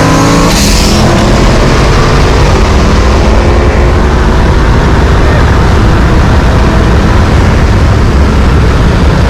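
Loud, steady car engine running hard, buried in dense low rumble of road and wind noise.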